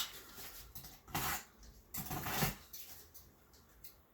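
Handling noise from a cardboard shipping box being moved and readied for opening: three short scrapes and knocks, the first at the very start, then one about a second in and one about two seconds in.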